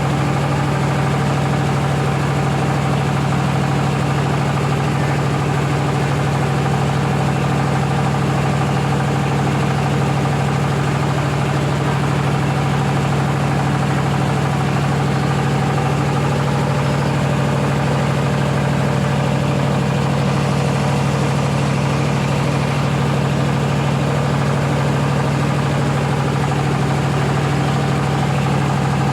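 Rice milling machine running steadily: a loud, even machine drone with a strong low hum.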